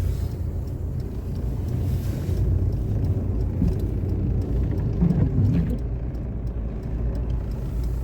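Steady low rumble of a car in motion heard from inside the cabin: engine and tyre road noise.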